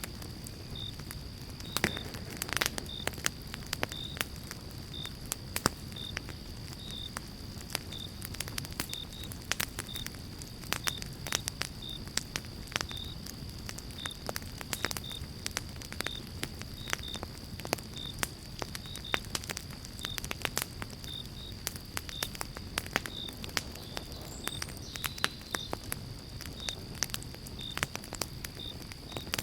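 Pine-log campfire burning with dense irregular crackling and sharp pops over a steady low rumble of flame. A faint high chirp repeats about twice a second throughout.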